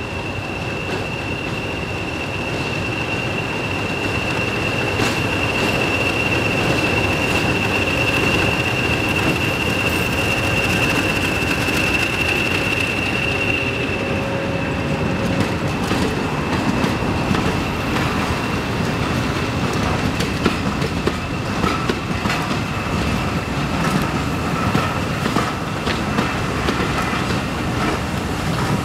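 Steam-hauled passenger train running past, growing louder as it nears. A steady high-pitched squeal is heard for about the first half, then irregular clicks and knocks as the carriages roll by.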